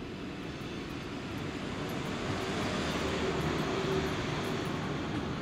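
German ICE high-speed electric train approaching along the tracks: a steady rush of wheels and running gear that grows louder over the first four seconds, with a faint steady whine near the middle.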